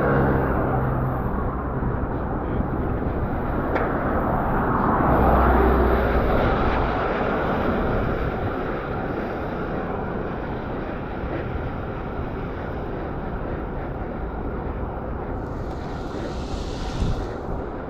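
Steady rush of wind and road noise heard from a road bicycle while riding, swelling louder with a deep rumble about five seconds in, with a short hiss near the end.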